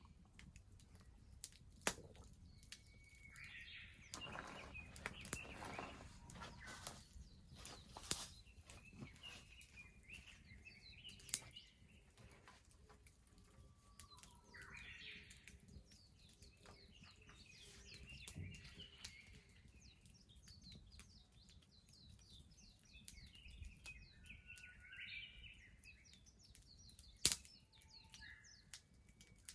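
A wood bonfire crackling quietly, with a few sharp pops, while small birds chirp repeatedly in the background.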